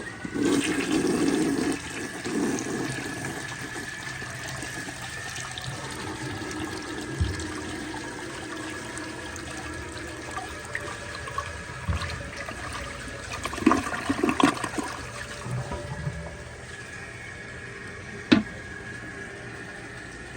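1967 American Standard Glenwall toilet flushing: a loud rush of water for the first couple of seconds, then the bowl swirling and draining with several sharp gurgles, while the tank refills under a steady high hiss.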